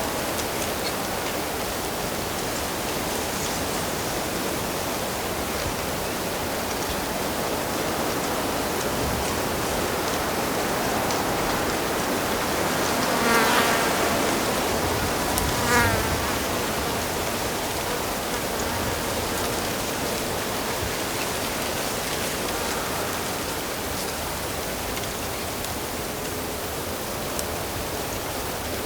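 Steady rush of running stream water, with an insect buzzing close past the microphone about halfway through, briefly and then once more a couple of seconds later.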